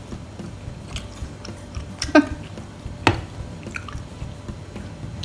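Close-miked chewing of soft food, a mouthful of boiled egg with tomato and onion, with a few sharp mouth clicks about one, two and three seconds in, the loudest about two seconds in.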